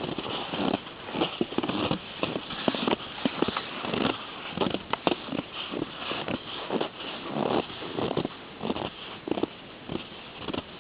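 Footsteps crunching in snow, an uneven run of about two steps a second.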